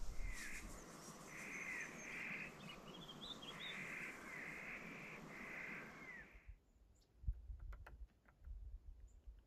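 A bird giving a run of about six harsh, crow-like calls, each about half a second long, over a steady hiss. The sound cuts off abruptly about six and a half seconds in, leaving only faint clicks.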